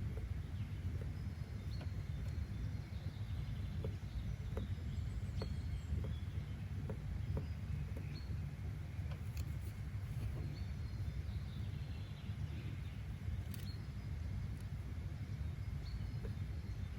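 Outdoor nature ambience: a steady low rumble with scattered faint clicks and occasional short, high chirps.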